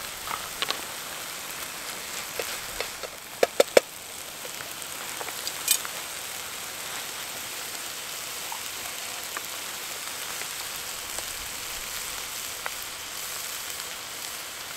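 Minced beef, onions and freshly added chopped tomatoes sizzling steadily in a frying pan on a Trangia stove. A few sharp knocks from the wooden spoon and pan in the first four seconds, three in quick succession just before the sizzle settles.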